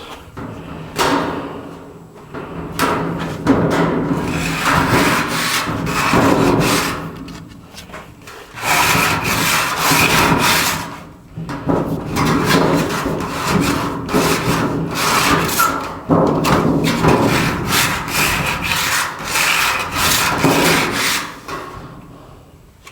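Rapid back-and-forth scrubbing strokes against a hard surface, in runs of a few seconds with short pauses between.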